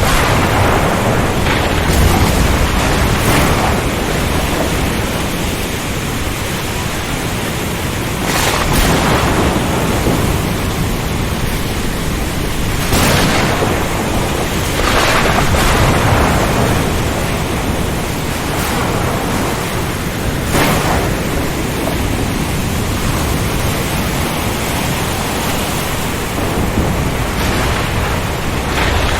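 Ocean storm ambience: a dense, steady rush of wind, rain and surf, swelling in louder surges every few seconds, with low rumbles of thunder.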